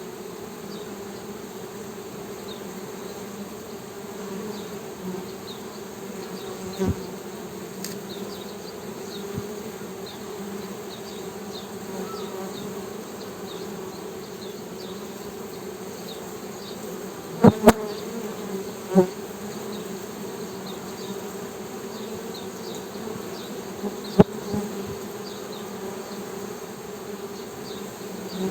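Honey bees humming steadily, with a few sharp clicks cutting in, a close pair of them a little past the middle.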